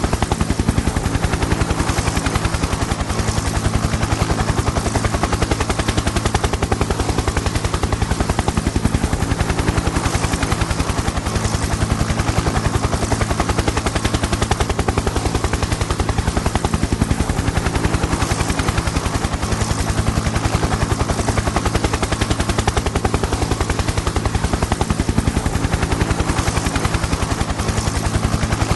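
Helicopter in flight: the rotor blades make a fast, even chop over a steady low engine hum.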